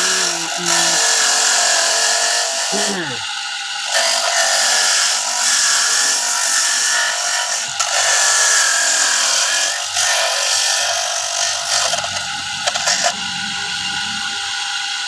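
Electric coconut grater running, its spinning grater rasping against coconut flesh. The rasping grows louder and eases off in stretches of a few seconds.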